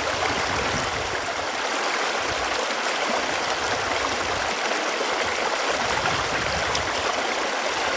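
Running water flowing steadily, an even rushing noise.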